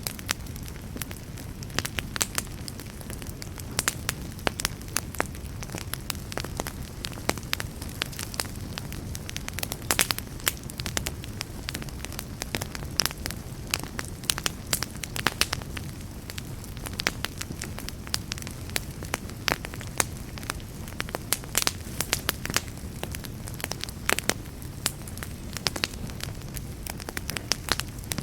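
Wood campfire burning with a steady low rumble and frequent irregular crackles and pops.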